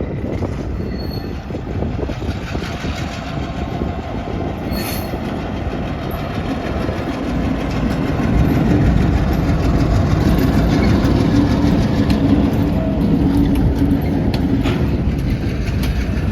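Shortline freight train passing close by, a diesel locomotive and loaded grain cars rolling on the rails, growing louder about halfway through with a steady low engine tone.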